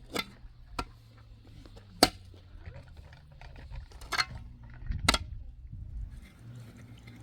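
Five sharp knocks of hard objects striking, irregularly spaced, loudest about two seconds in and again near five seconds, over a faint low hum.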